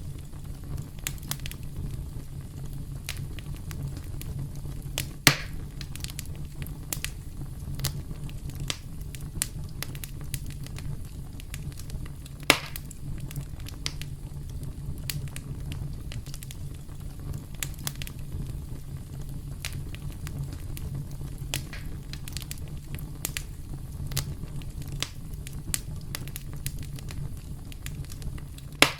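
Campfire burning, with a steady low rumble under constant crackling of the burning wood and a few sharp louder pops, the loudest about five seconds in, near the middle and at the very end.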